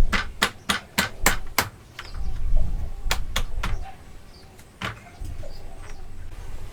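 Hammer blows on wood in a quick run of about four a second for the first second and a half, then three more blows and a single late one.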